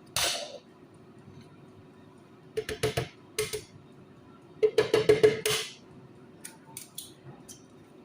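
A kitchen utensil knocking and clattering against a bowl: a short scrape just after the start, then quick runs of clinks with a ringing note, the busiest about halfway through, fading to a few light ticks near the end.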